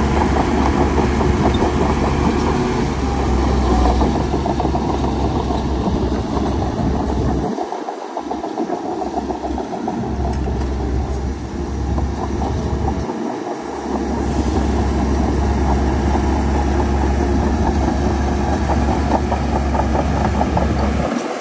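Heavy diesel earthmoving machinery running steadily with a deep low rumble. The rumble drops out briefly about 8 seconds in and again about 13 seconds in.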